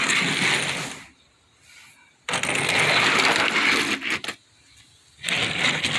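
Small toy trucks being handled and sorted, clinking and rattling against each other in three bursts with short quiet gaps between.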